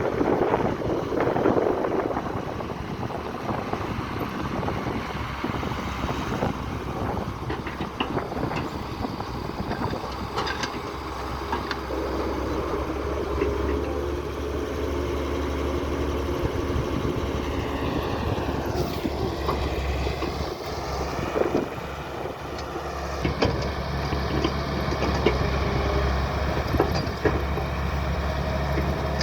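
Diesel engines of an excavator and tractors running steadily, with scattered knocks and clanks. About two-thirds of the way through, a whine dips and then rises in pitch.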